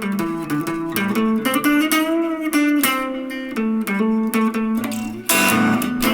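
Guitar playing an instrumental passage of picked notes and chords, with a note bent up and back down about two seconds in. A louder strummed chord comes in near the end.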